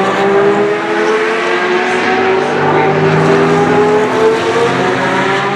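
Historic Formula One car engines running at high revs, their pitch slowly rising and falling.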